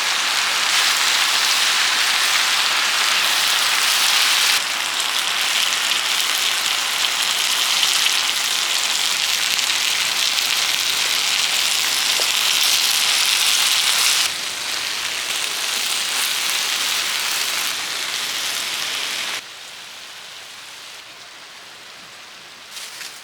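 Steady hiss of falling or rushing water. It changes level abruptly three times and drops to a much softer hiss a few seconds before the end.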